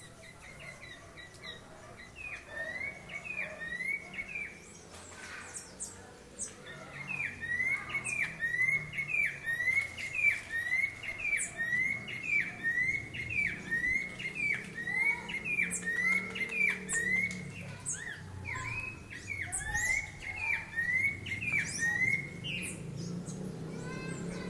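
A bird singing a long series of short, repeated down-slurred notes, about two a second, with other higher chirps mixed in. The series pauses briefly about five seconds in, then resumes and runs on until shortly before the end.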